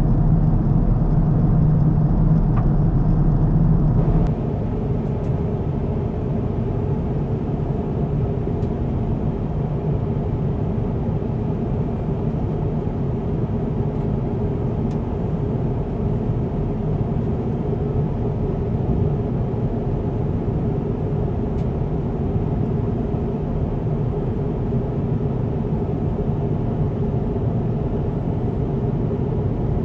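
Steady cabin noise of an Airbus A350-1000 airliner heard from inside the cabin, a constant low rumble. About four seconds in it drops abruptly to a slightly quieter, steady rumble.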